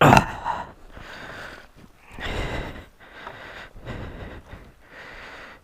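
Honda XR250L single-cylinder four-stroke dirt bike riding a rough trail, with uneven swells of engine and riding noise as the throttle comes on and off. There is a sudden loud burst at the very start.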